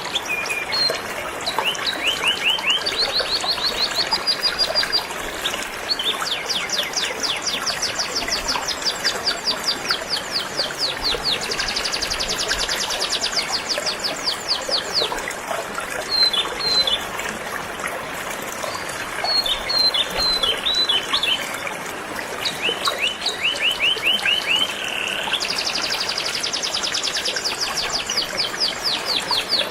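A canary singing long, fast trills of rapidly repeated notes, switching to a new pitch and phrase every few seconds, over the steady rush of flowing river water.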